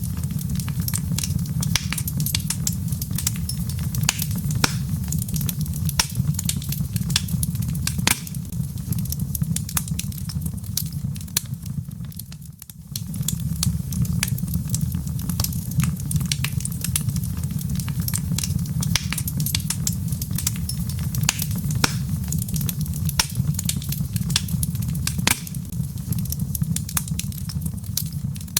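Log fire crackling, with frequent sharp pops and snaps over a steady low rumble. It eases off briefly about twelve seconds in.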